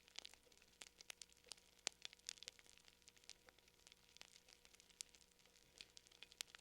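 Faint wood fire crackling: a steady scatter of irregular pops and snaps over a soft hiss, with a couple of sharper pops.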